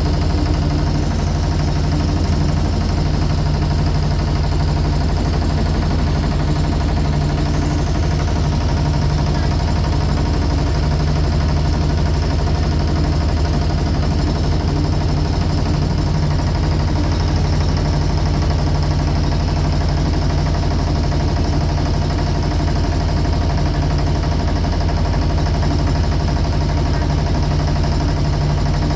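Motorboat engine running steadily at an even pitch, a loud constant hum.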